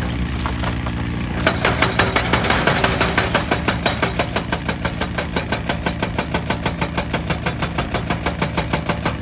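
Excavator-mounted hydraulic rock breaker hammering rock in a fast, even rhythm of about six blows a second, starting about a second and a half in, over the steady running of the excavator's diesel engine.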